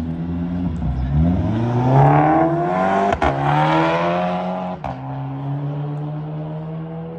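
Car engine revving up, its pitch rising steeply for about two seconds, with a sharp crack about three seconds in and another shorter one near five seconds, then settling to a steady lower running note.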